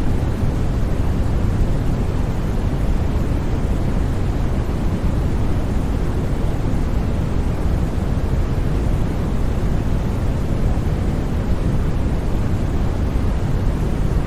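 Steady white noise played for sleep: an unbroken, even rush that is deep and full in the lows, with little hiss at the top and no changes or sudden sounds.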